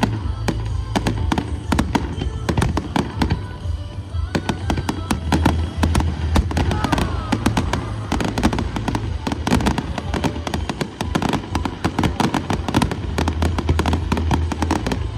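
Fireworks going off in rapid, continuous volleys, a dense run of bangs and crackles, with music for the show playing underneath.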